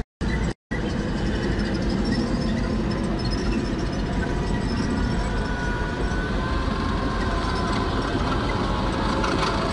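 Heavy vehicle engine running steadily, a low rumble with a faint whine over it, cut out twice for a split second near the start.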